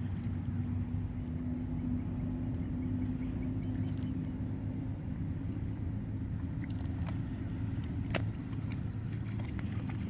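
Steady low rumble of a running motor, with a constant hum, and a few faint clicks; one sharper click about eight seconds in.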